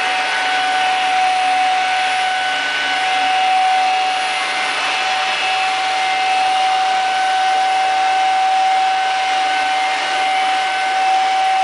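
Electric motor and rotors of a scale RC helicopter running steadily: a high, even whine over the rush of the blades.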